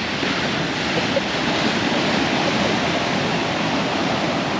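Ocean surf washing steadily on the shore, a continuous noisy rush.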